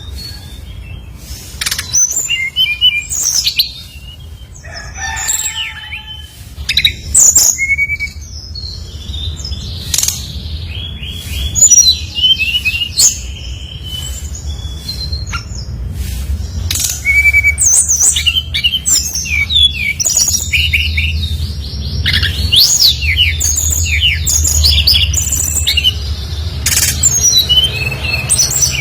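Brown-chested jungle flycatcher singing energetically: a rapid, varied run of sharp chirps and sliding whistled notes, over a steady low hum.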